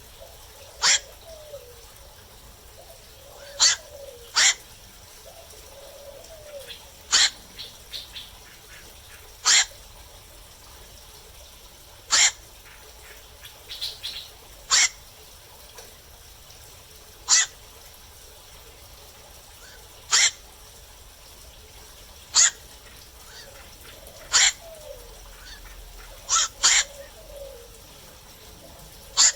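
Black-crowned night herons calling at night: short, harsh single 'kwok' calls every two to three seconds, a few of them in quick pairs, with fainter calls between.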